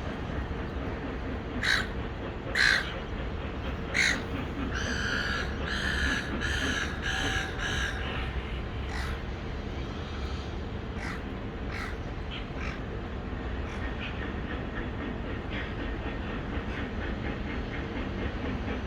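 Parrot calling with harsh, loud calls: three separate ones in the first four seconds, then a quick run of short repeated calls lasting about three seconds, then fainter scattered calls over a steady low background hum.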